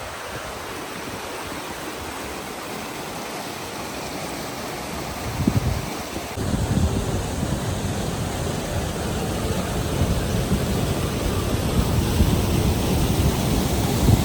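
Wind blowing over the microphone: a steady rushing hiss, with low rumbling gusts that buffet the microphone from about five seconds in.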